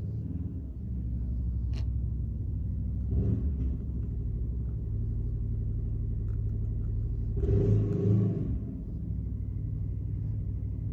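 Electric pet hair clipper running with a steady low buzz. It gets louder and harsher for about a second, around seven and a half seconds in.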